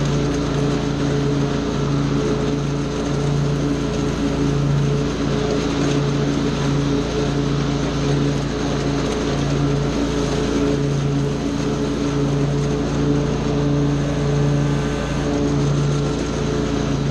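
Small gasoline engine of lawn care power equipment running steadily at constant speed, its pitch wavering only slightly under load.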